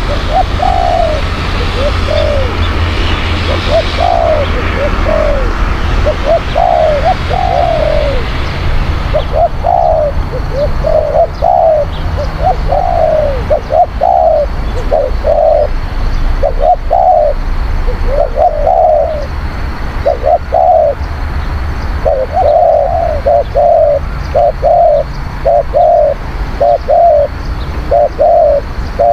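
Spotted dove cooing over and over: short coos in quick runs and groups, with a low background rumble underneath.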